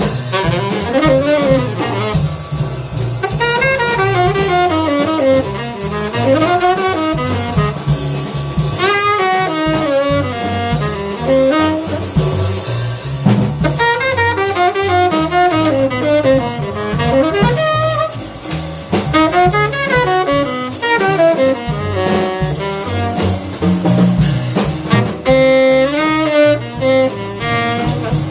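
Jazz tenor saxophone playing fast, winding melodic lines, accompanied by bass and a drum kit.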